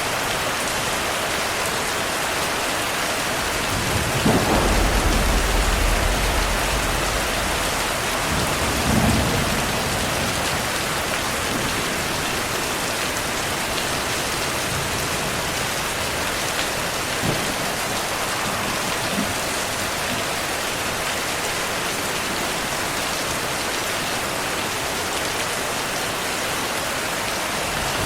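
Steady heavy rain, with a low rumble of thunder about four seconds in that lasts a couple of seconds, and a second, shorter rumble about nine seconds in.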